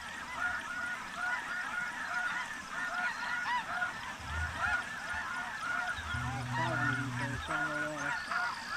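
A large flock of snow geese calling: dense, overlapping high, short honks with no break. A low steady tone sounds briefly about six seconds in.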